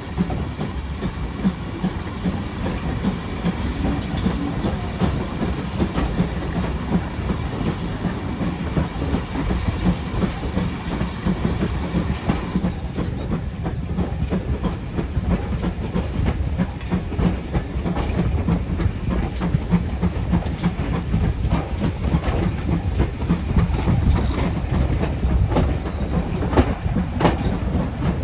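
Steam-hauled train running along the line: a steady rumble of wheels on rail, with clicking over the rail joints. A hiss above it cuts off suddenly about halfway through.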